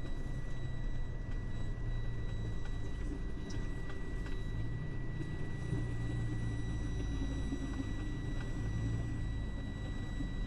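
Diesel engine of a delivery semi-truck running steadily while driving, heard from inside the cab as a low rumble. A thin steady high tone runs under it.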